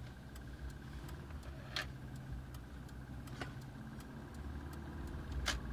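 Subaru EJ25 flat-four engine running with a steady low hum, faint light ticking throughout, and three sharper clicks spread across the few seconds. The owner is sure this engine has piston slap, which began around 500 miles and has grown worse.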